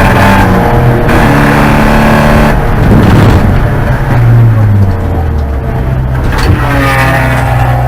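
Porsche 944 Spec race car's engine running hard, heard onboard, its pitch holding and then shifting up and down as the revs change.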